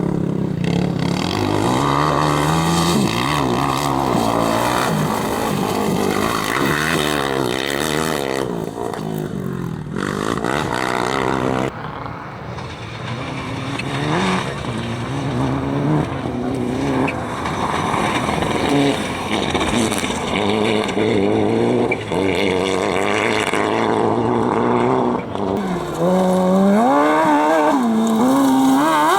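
Competition car engines revving hard on a dirt slalom course, the pitch climbing and dropping repeatedly with throttle and gear changes. The sound switches abruptly to a different vehicle a few times.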